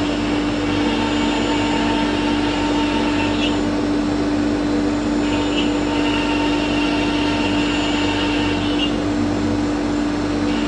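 CNC router cutting furniture panels: a steady machine hum under even noise, with a high whine that comes and goes in stretches of a few seconds, twice stopping and starting again.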